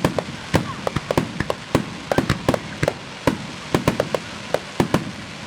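Fireworks exploding in a rapid, irregular volley of sharp bangs, several a second, stopping suddenly near the end.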